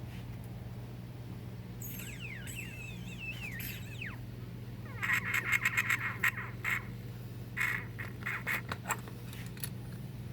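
Metal transmission parts being worked apart: a squeaky, wavering scrape, then two runs of quick rattling clicks. A steady low hum runs underneath.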